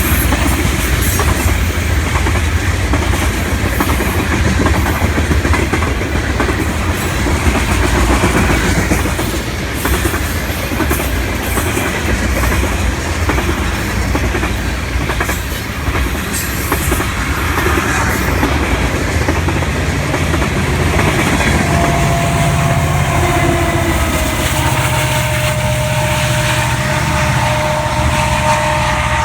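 Freight train of tank cars rolling past, steel wheels clicking rhythmically over the rail joints with a continuous rumble. About two-thirds of the way in, a steady droning tone with a low hum joins the rolling noise.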